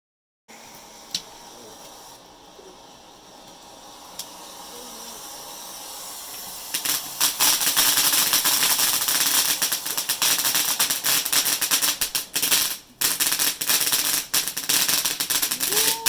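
Firework crackling. A faint hiss with a couple of single pops slowly builds, then about seven seconds in it breaks into loud, dense crackling that runs on with a brief drop near the thirteen-second mark.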